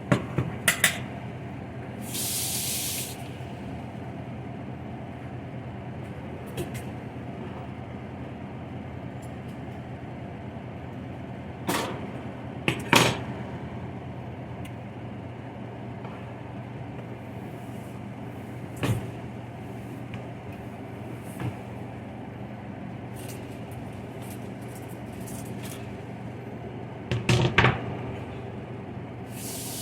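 Pots, pans and utensils clanking now and then over a steady low hum, with a short hiss about two seconds in.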